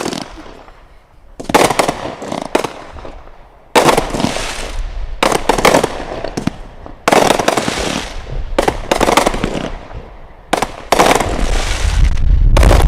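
Consumer firework cakes firing: a series of sudden loud bangs a second or two apart, each followed by crackling that trails off, with a low rumble building near the end.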